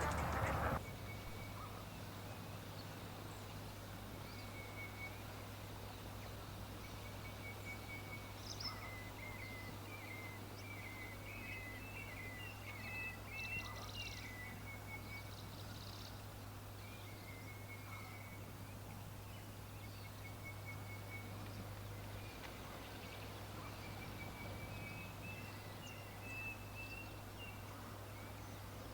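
Birds calling faintly in repeated bouts of short, high chirps and trills over a steady low hum. A louder sound, which carries over from duck-like quacking just before, stops within the first second.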